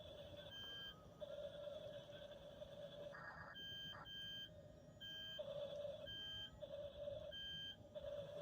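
Faint electronic beeping: steady pure tones at a few fixed pitches, switching on and off and changing pitch every half second to a second.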